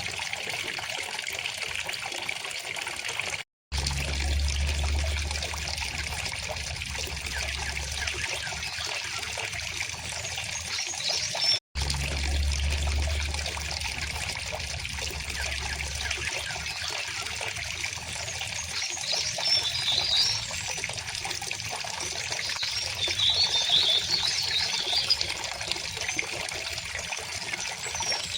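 A stream trickling and flowing steadily, with brief high bird chirps about 11 seconds in and again twice in the second half. The sound cuts out for an instant twice, each time followed by a few seconds of low rumble.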